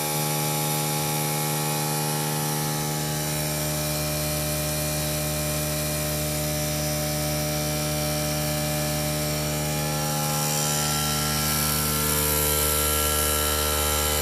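Small electric power tool running steadily, being used to clean up a part. It holds one steady pitch, gets slightly louder about eleven seconds in, and cuts off suddenly at the end.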